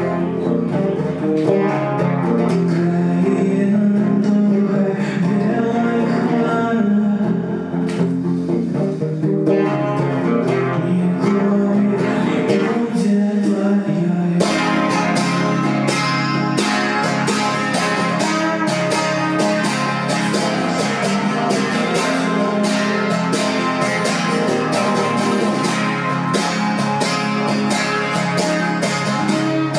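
Acoustic guitar played live, turning to fuller, brighter strumming about halfway through.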